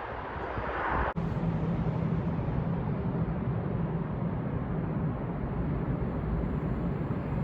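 Electric train on the Gotthard line running past with a steady low rumble and hum. About a second in, a windy hiss breaks off abruptly into the rumble.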